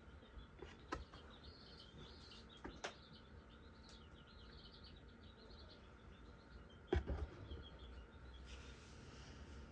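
Faint, quick bird chirping, a run of short high notes, with a few light clicks and one louder knock about seven seconds in from eggs being handled on the candler.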